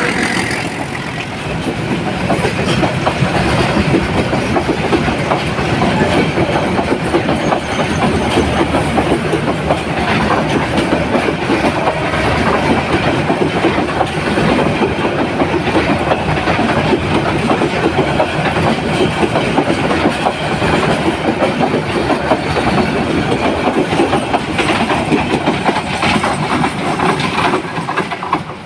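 Commuter train rolling on the track, a loud, steady clatter of wheels over the rails that eases off near the end.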